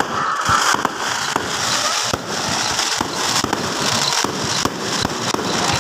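Aerial fireworks going off in quick succession: many sharp bangs and pops over a continuous crackling hiss.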